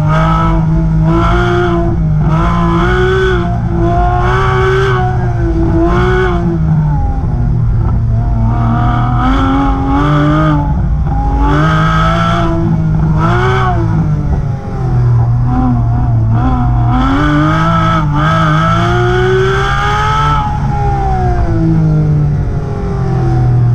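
2015 Porsche 911 GT3's naturally aspirated flat-six, breathing through valved side-muffler bypass pipes with the valves open, being driven hard on an autocross course. It revs up and lifts off again and again, its pitch rising and falling every second or two.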